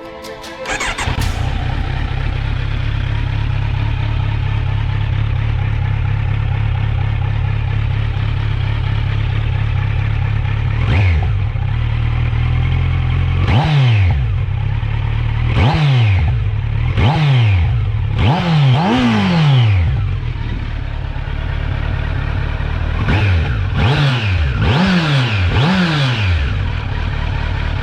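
Kawasaki Z900's 948 cc inline-four engine on its stock exhaust, coming in about a second in and idling steadily. From about eleven seconds in, the throttle is blipped about ten times, each rev rising sharply and falling back to idle.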